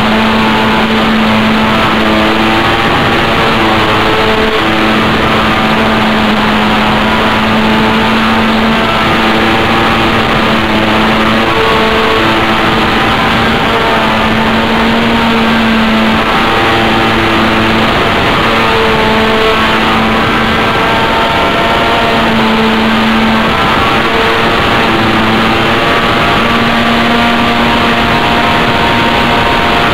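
Control line model airplane engine running steadily at full power in flight, heard loud and close, its pitch wavering slightly as the plane circles.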